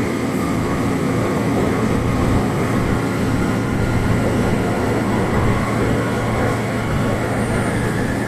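Sendai City Subway Namboku Line 3000-series train running between stations, heard from inside the car: a steady rumble of wheels on rail with a low, even hum.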